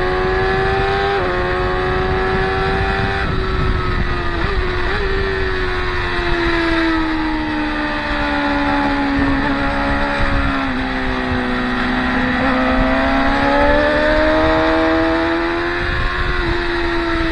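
Racing motorcycle engine running hard on a track, with small jumps in pitch early on. The pitch then slowly sinks and climbs again as the throttle changes.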